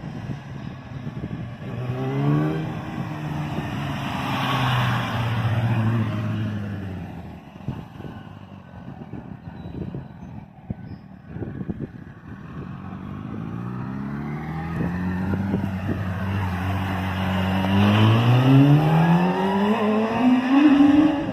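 Yamaha R1 inline-four sportbike engine, revving up and pulling hard twice, with a quieter stretch in between. The pitch climbs in short steps the first time and in one long rising glide near the end.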